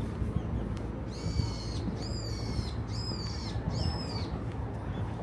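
A bird calling four times, about once a second, each call a high whistle with overtones that holds and then drops at the end, over a steady low hum of background noise.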